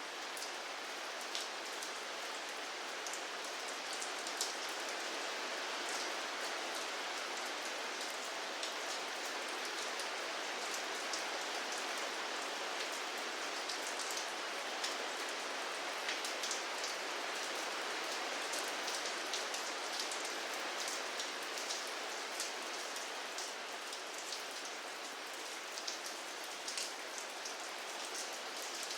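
Steady rain falling, a dense even hiss with many distinct drops ticking on a surface.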